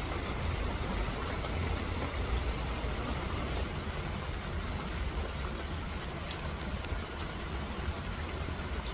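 Steady rain falling in a garden, an even hiss with a few faint separate drop ticks, over a steady low rumble.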